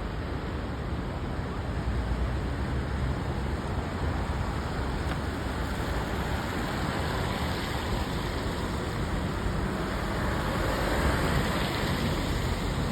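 Floodwater of the overflowing Dawlish Brook rushing past: a steady dense wash of water noise with a low rumble under it, growing a little louder and brighter near the end.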